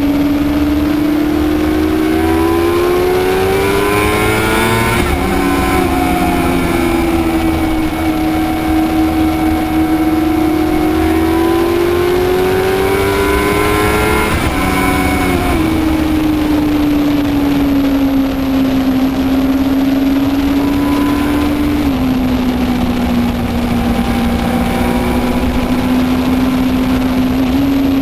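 2008 Suzuki GSX-R 600's inline-four engine running through an M4 aftermarket exhaust, held at a steady speed. It is slowly revved up twice, about three and twelve seconds in, and drops back sharply each time, then settles a little lower near the end.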